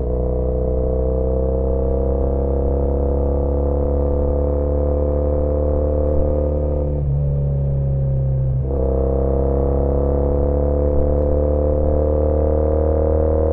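Triumph Bonneville T100's air-cooled parallel twin, breathing through British Customs Sleeper Pro exhausts, running under steady load with the pitch slowly climbing. About seven seconds in there is a brief change in the note, like a gear change, after which the engine pulls and rises again.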